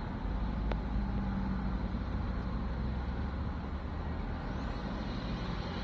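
Car engine idling, a steady low hum, with one faint click less than a second in.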